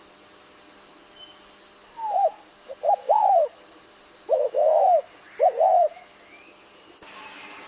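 A bird calling: a run of short notes that each rise and fall in pitch, mostly in pairs, starting about two seconds in.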